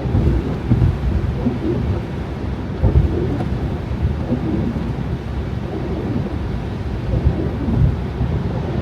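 A car driving on snowy roads: a steady low rumble of tyre and wind noise, broken by irregular low thumps.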